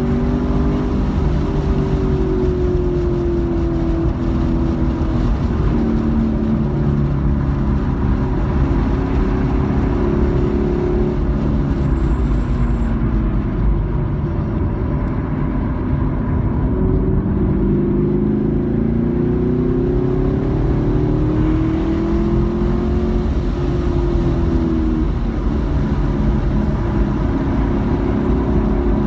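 A car's engine heard from inside the cabin at track speed, with road noise. The engine note falls as the car slows for a corner about halfway through, then climbs again as it accelerates out, dipping once more before rising near the end.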